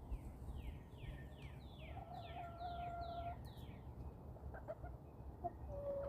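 Backyard hens calling, one holding a drawn-out note about two seconds in and another giving a short call near the end. Over them a wild songbird repeats a quick series of falling whistles, about two or three a second.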